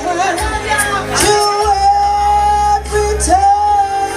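Live band music with a singer holding long notes over a steady bass line.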